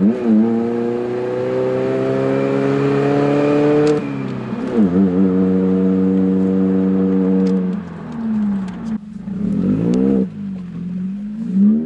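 Hyundai Elantra GT's little 1.8-litre four-cylinder engine with the muffler deleted, heard from inside the cabin, pulling hard up through the revs. About four seconds in the revs drop for a gear change, then it pulls again. Near the end the revs fall away and flare up twice in quick blips.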